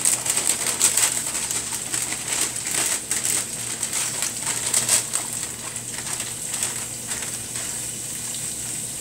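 Chicken pieces sizzling in hot oil in a pot as they are pushed in off parchment paper, a steady hiss with many crackling pops that thin out after about five seconds.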